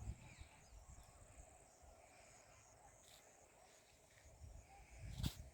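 Near silence: faint outdoor ambience with a low rumble on the microphone and a brief rustle about five seconds in.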